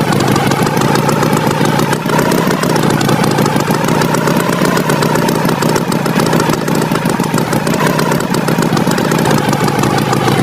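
Tractor engine running steadily, a continuous loud motor sound with a slightly wavering whine over fast pulsing.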